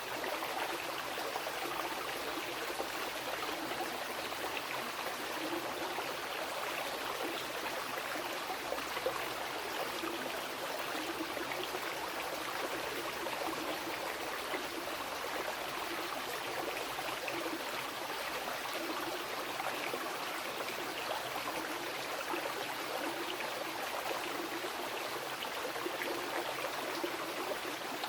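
Mountain river flowing over rocks: a steady rush of water with fine splashing and gurgling.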